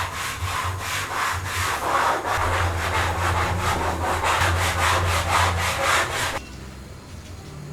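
Rapid back-and-forth scraping or scrubbing strokes, about four a second, that stop suddenly near the end.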